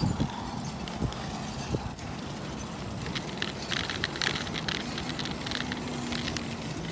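Bicycle being ridden, with steady rolling noise and a few sharp knocks in the first two seconds. Stretches of rapid light ticking follow later on.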